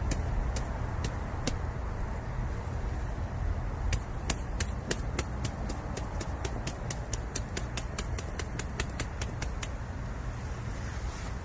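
Bamboo burning in a campfire, crackling with sharp pops: a few scattered snaps at first, then a quick run of them from about four seconds in until near the end, over a steady low rumble.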